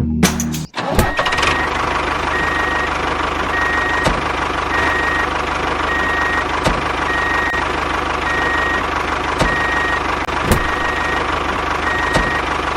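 Small electric motor of a DIY toy tractor running steadily with a whine, while a short high beep repeats about once every three quarters of a second, like a reversing alarm. Faint clicks come every two to three seconds.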